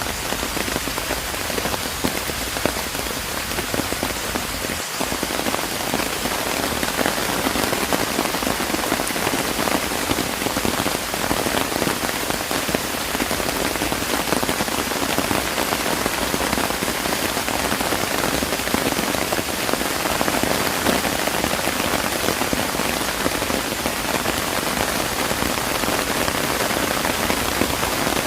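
Steady rain falling on surfaces, an even dense patter of many drops.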